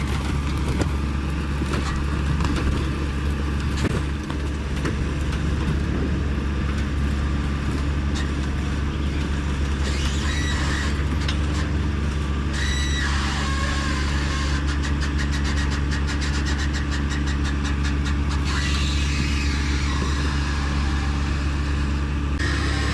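Large diesel engine running at a steady speed, a constant deep drone. A few brief high squeals come through between about 10 and 13 seconds in.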